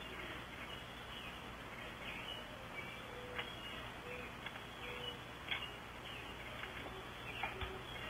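Faint bird chirps and a few short, low, steady notes over a constant hiss. A handful of brief sharp clicks come through, the loudest about five and a half seconds in.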